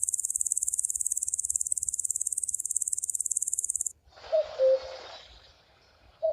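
An insect chirring with a very fast, even, high-pitched trill that cuts off after about four seconds. Then a bird gives a two-note call, the first note higher than the second, and starts the same call again near the end.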